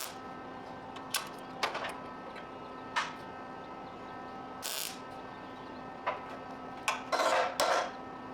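Welding on a car subframe: short bursts of welding-arc crackle, several brief ones and then two longer runs near the end, over a steady hum.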